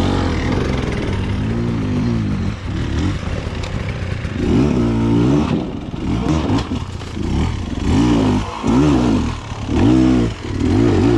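Off-road motorcycle engines revving in short throttle bursts, the pitch rising and falling again and again, several times in the second half, as the bikes climb a steep rocky slope.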